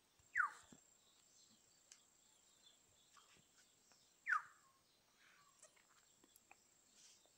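A bird chirping twice, each call a short falling note, about four seconds apart, over faint background noise.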